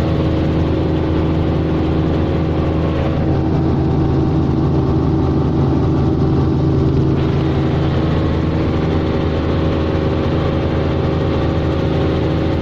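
Helicopter in flight: a loud, steady drone of engine and rotor, with several constant tones over a hiss, unchanging throughout.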